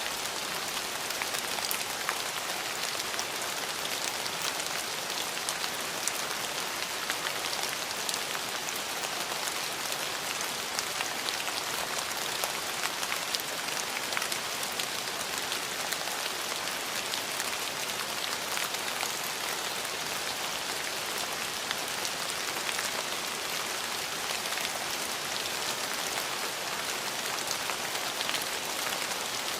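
Steady rain falling, a constant even hiss scattered with the small ticks of individual drops.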